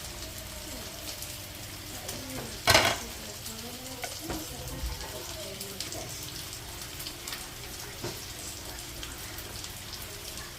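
Food frying and sizzling in a hot pan. About three seconds in there is one sudden loud knock, like a utensil hitting the pan.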